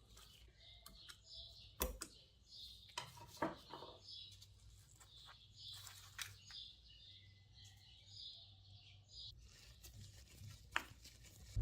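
Faint handling noises of small objects: light rustles and scattered clicks, a few sharper ones about two, three and eleven seconds in, over a low steady hum.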